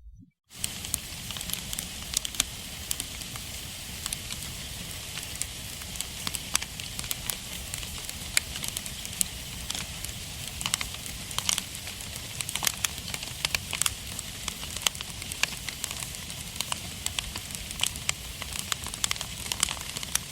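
Wood fire burning in a fireplace, crackling and popping: a steady hiss with frequent sharp, irregular pops. It comes in after a brief moment of silence at the very start.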